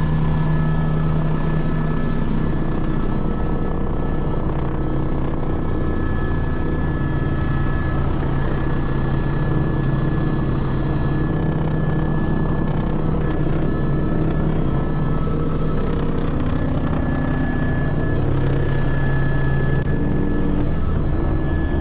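Helicopter in steady flight: a continuous drone of rotor and turbine engine, with a thin steady high tone over it.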